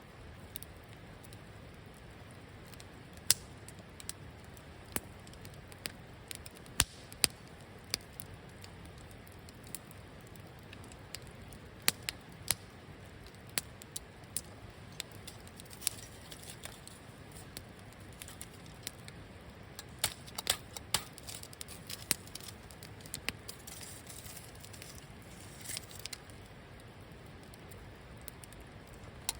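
Wood campfire crackling: irregular sharp pops and snaps over a low steady background, with a short stretch of hissing about twenty-five seconds in.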